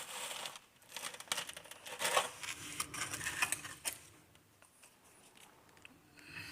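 A metal tool scraping and tapping across wet concrete mix as it is smoothed in a formwork, with irregular clicks and short scrapes that die down after about four seconds.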